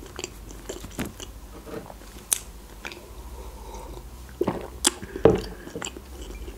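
Close-up mouth sounds of a soft chocolate-filled croissant being chewed, with small wet clicks. About four to five seconds in, a few louder sounds come as a drink is sipped and swallowed from a mug.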